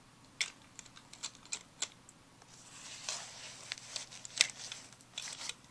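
Light, irregular clicks and taps of plastic dolls and toy pieces being handled, with a soft rustle around the middle.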